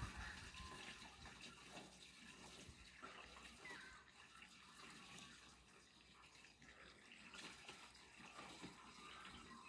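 Faint, steady pour of diesel from a heavy drum into a tractor's fuel tank.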